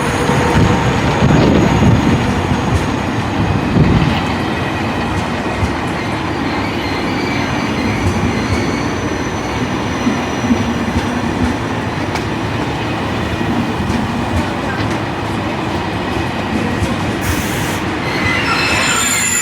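High-speed TGV train running along the platform: a loud, steady rush of wheels and air, with thin high whining tones near the start and again near the end.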